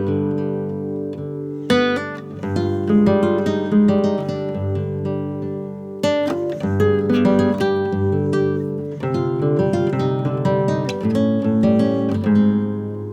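Acoustic guitar music: plucked notes and struck chords ringing out, with louder chords about two seconds in and again near the middle.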